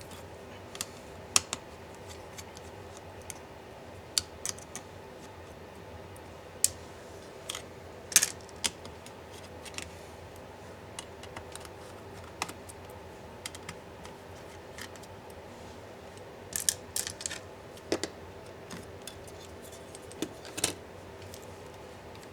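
Irregular sharp clicks and taps of small tools and plastic and metal laptop parts being handled during disassembly, with a few quick clusters of clicks, over a steady faint background hum.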